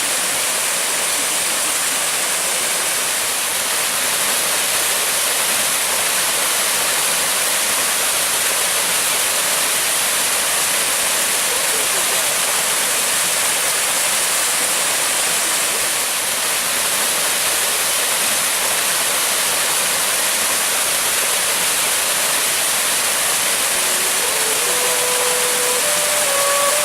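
Waterfall: a loud, steady rush of falling water. A few notes of music come in faintly over it near the end.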